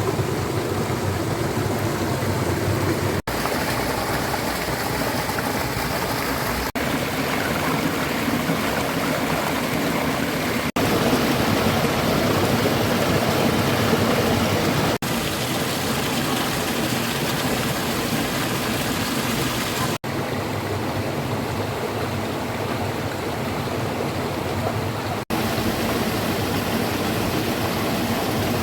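Heavy rain pouring down, a steady rushing hiss. It breaks off for an instant every four to five seconds, at each cut between short clips.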